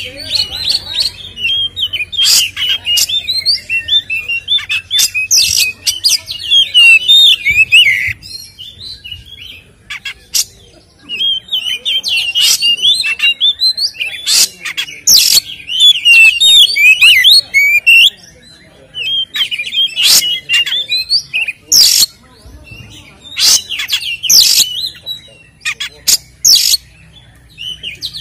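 Oriental magpie-robin singing: several bursts of rapid, varied whistles and chattering notes mixed with sharp clicking calls, each lasting a few seconds with short pauses in between.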